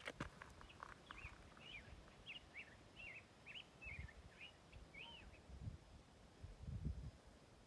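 A bird singing faintly, a run of short, quick chirps at about two a second that stops about five seconds in. A few low rumbles come near the end.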